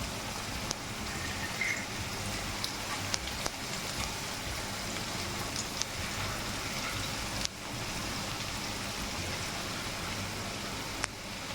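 Batter-coated chicken pieces deep-frying in hot oil in a kadai: a steady sizzle with scattered sharp pops and crackles.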